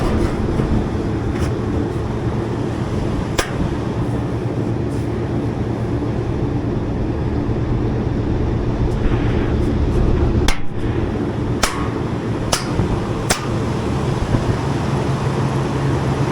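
Commercial rooftop HVAC unit with a belt-driven blower running with a steady hum, with a few sharp knocks or clicks: one about three seconds in and four more close together between about ten and thirteen seconds.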